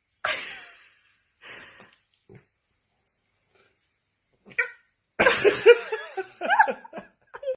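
A dog making a few short sounds, then a quick run of high, pitch-bending whines and yips in the last two seconds.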